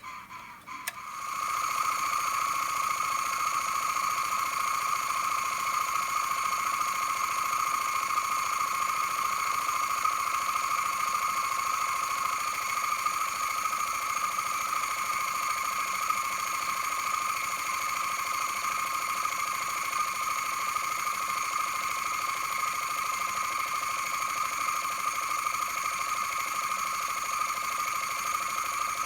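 Toy live-steam workshop accessories (Jensen, Mamod and Wilesco models) starting up about a second in, then running at a steady speed with a continuous high mechanical whine.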